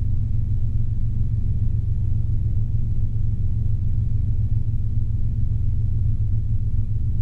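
Robinson R22 helicopter in steady level cruise, heard from inside the cabin: a constant low drone of engine and rotor.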